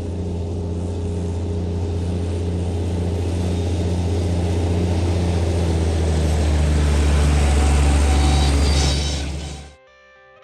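Farm tractor engine running steadily under load, with a deep hum and a regular pulsing beat, growing louder. It cuts off abruptly near the end, giving way to faint guitar music.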